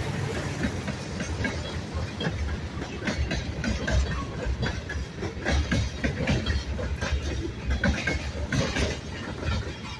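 Freight train's tank cars and covered hoppers rolling past close by with a low rumble, their wheels clicking and clunking irregularly over the rail joints.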